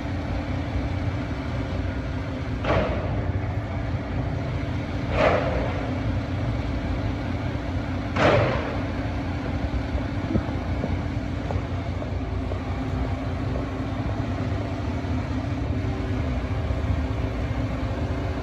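Crane truck's engine running steadily, with three short rushing bursts a few seconds apart while the crane is being folded away.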